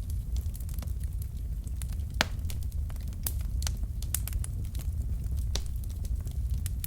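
Wood fire burning in a fireplace: scattered sharp crackles and pops from the logs over a steady low rumble of the flames, with one louder pop about two seconds in.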